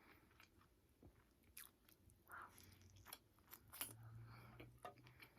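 Faint close-up chewing of takeout food, with scattered soft mouth clicks and a low hum about four seconds in.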